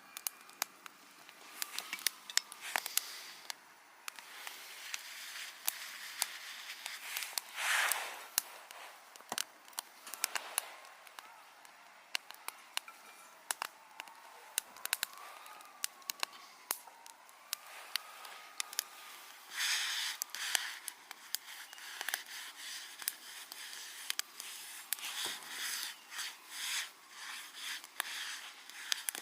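Wood campfire crackling, with frequent irregular sharp pops and snaps, and now and then a brief rustle of handling.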